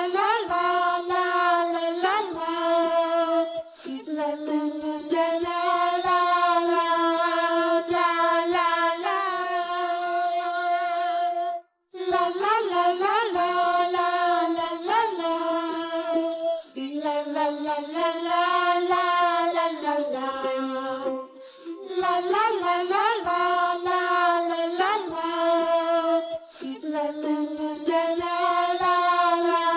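Background song: a child's voice singing a simple melody with held notes. It breaks off briefly about twelve seconds in, then carries on.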